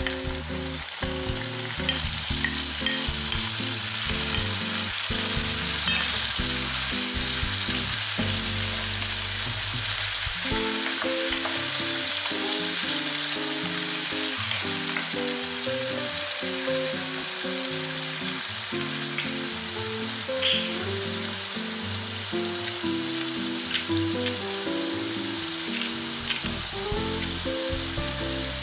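Diced tomatoes, onion and garlic sizzling in hot oil in a frying pan, stirred with a wooden spoon, with a few light ticks. Background music plays underneath.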